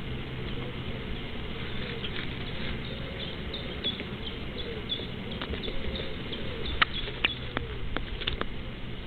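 Birds calling: a run of short, high chirps repeated several times a second, with low, curving calls underneath. Several sharp clicks come near the end.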